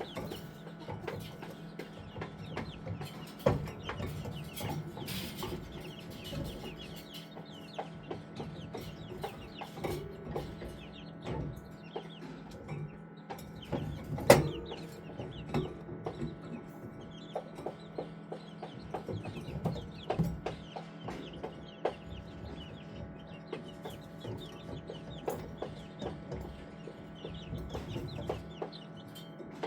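A brood of young chicks peeping continuously in many short, high chirps, over a steady low hum. A few sharp taps stand out, the loudest about halfway through.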